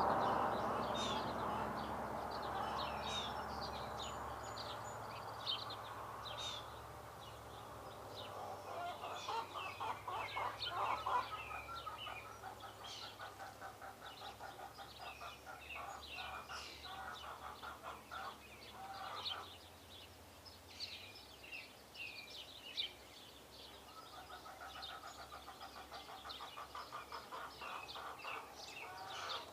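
Small birds at feeders chirping and calling, many short high calls overlapping throughout. A louder rushing noise fades away over the first several seconds, and bouts of rapid, even pulsing come and go underneath.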